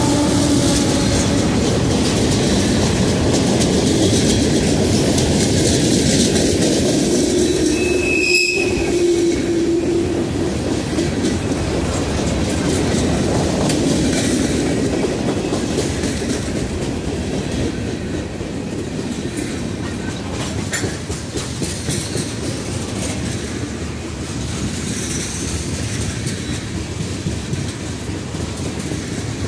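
Freight train cars rolling past at close range: a steady rumble and clatter of steel wheels on the rails, with a brief high wheel squeal about eight seconds in.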